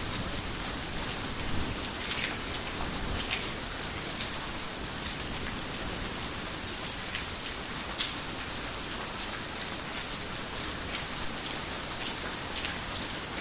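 Heavy rain falling on a garden house in a steady hiss, with sharp single drops ticking through it every second or so.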